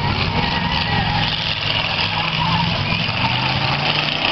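Several demolition derby cars' engines running and revving as they drive around the arena, their pitch rising and falling, over a steady wash of noise.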